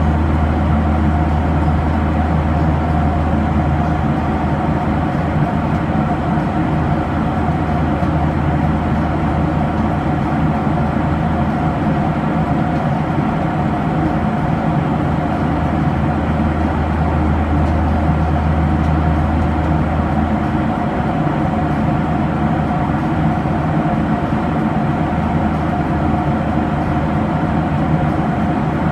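Cabin noise inside a Boeing 737-800 in flight: the steady drone of its CFM56-7B turbofan engines and the airflow, with a deep hum and a steady mid-pitched tone. The deep hum eases a little about twenty seconds in.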